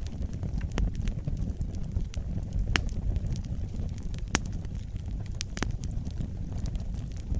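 Wood fire burning in a fireplace: a steady low rumble of the flames with irregular crackles and sharp pops, a few louder snaps among them.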